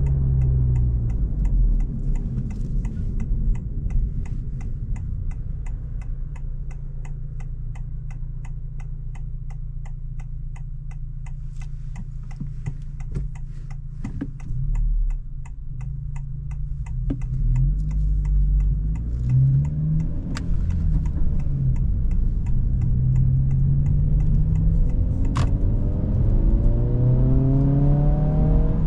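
Turn-signal relay in a 2025 Honda Civic Si ticking steadily, about two to three ticks a second, over the low hum of its 1.5-litre turbo four-cylinder heard from inside the cabin. The ticking stops near the end and the engine rises in pitch as the car accelerates.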